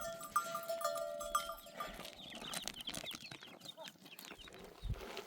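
Metal livestock bells clanking repeatedly on a herd of goats and sheep for about the first two seconds, followed by a short run of goat bleats.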